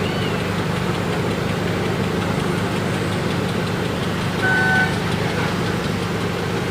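Passenger boat's engine running steadily, a continuous low drone heard on board. A short high-pitched beep or whistle sounds once about two-thirds of the way through.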